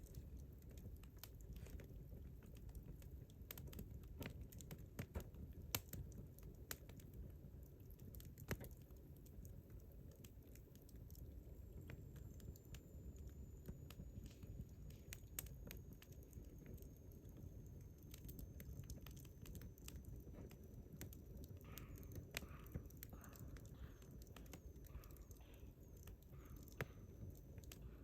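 Wood campfire crackling faintly, with scattered sharp pops and snaps over a low steady rumble. From about eleven seconds in, a thin high whistle slowly falls in pitch.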